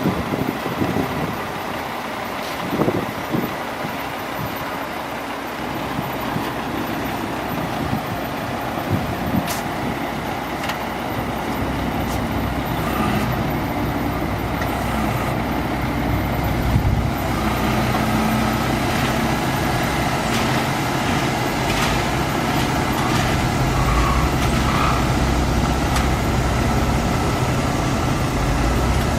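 Mack AMI-300 diesel engine of a 2003 Mack DM690S roll-off truck running, with a steady low drone that grows gradually louder.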